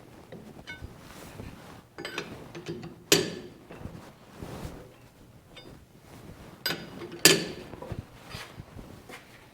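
Metal parts and tools being handled: scattered clicks and clinks, with two sharper metallic knocks about three seconds and seven seconds in.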